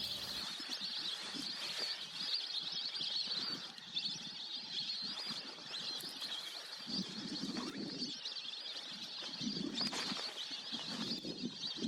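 A wetland bird chorus: many birds calling at once in a continuous high chatter, with lower calls swelling briefly about seven and ten seconds in.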